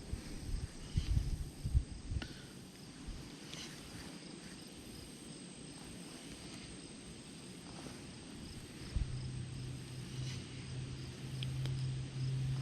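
Open-air lake ambience with faint insects chirping and a few low bumps at first; about three quarters of the way in, a steady low engine drone comes in and grows louder.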